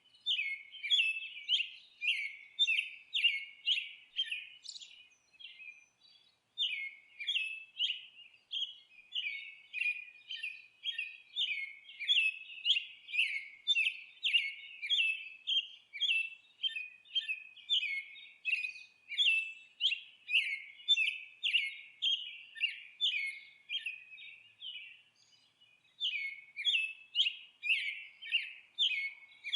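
Small songbirds chirping: short, repeated high chirps, about two a second, with brief pauses about six seconds in and again near twenty-five seconds in.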